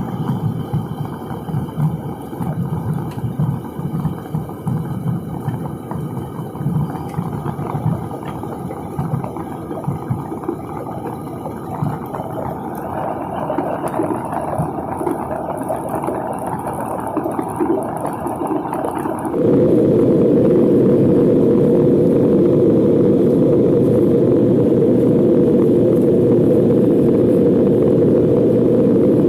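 Jet airliner cabin noise: a fluctuating rumble from the aircraft's engines and airframe. About two-thirds of the way in it changes abruptly to a louder, steadier engine noise.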